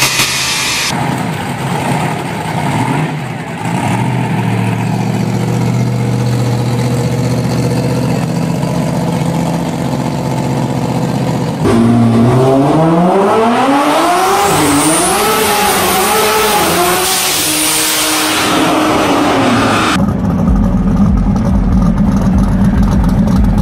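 Turbocharged Nissan 370Z engine idling steadily. Then a Nissan GT-R engine revved several times, its pitch climbing and dropping in repeated sweeps. After that comes a Chevy Camaro drag car's engine with a deep, low rumble.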